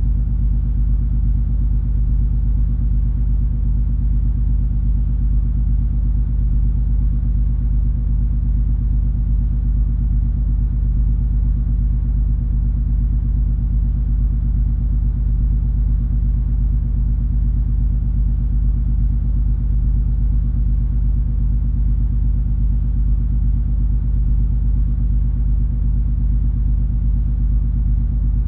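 Steady low rumble of the cruise ferry MS Color Magic under way: a deep, unchanging engine drone with a few steady hums in it.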